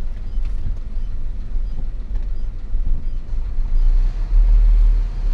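Hino FL 260 JT truck's six-cylinder diesel engine running under load, a steady low drone under road noise that grows louder about four seconds in.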